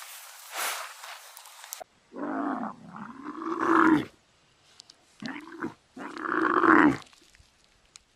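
An animal calling loudly three times, each a pitched call that bends in tone, the first and last over a second long and the middle one short, after a couple of seconds of faint hiss.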